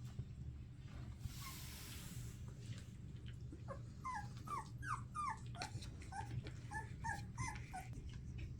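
Collie puppies whimpering: a run of about a dozen short, high squeaks, each falling in pitch, in the second half. A brief hiss comes a little over a second in.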